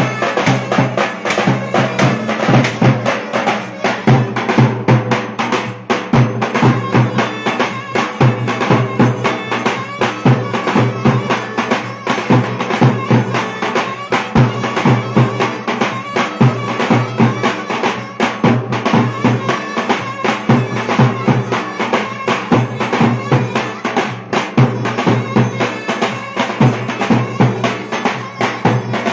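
Turkish Black Sea folk dance music: a fast, steady drum beat under a reedy, droning wind-instrument melody.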